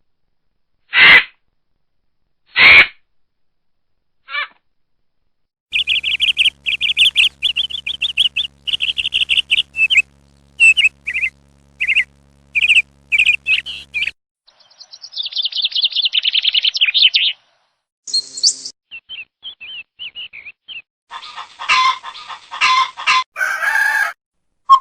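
A run of stock animal sound effects: songbird chirps and rapid high trills, then chicken clucking, then a rooster crowing near the end.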